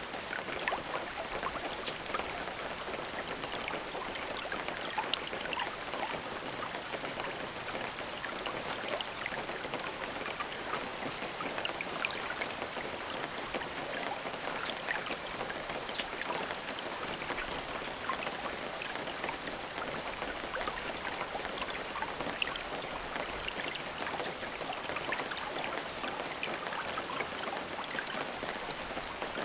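Steady rain falling, with many distinct drops pattering and ticking on a surface.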